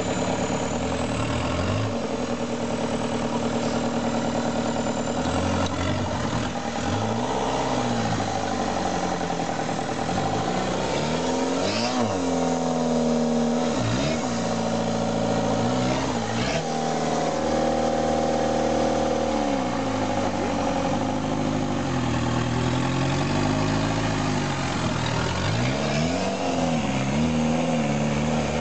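Off-road 4x4's engine revved up and down over and over as it strains to climb out of a muddy ditch, with a few sharp knocks midway.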